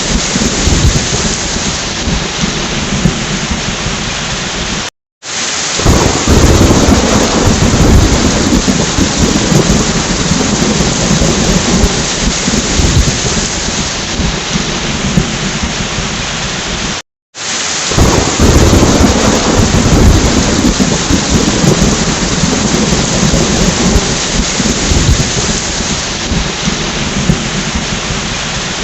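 Heavy rain with rolling thunder, a steady downpour hiss under deep rumbles. The sound cuts out completely for a moment twice, about five and seventeen seconds in, and a loud roll of thunder swells each time it comes back.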